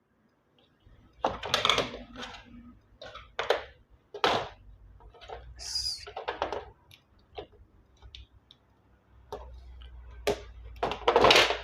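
Irregular clicks and knocks of hands handling a washing machine's removed control board and its plastic housing, with a brief hiss about halfway through.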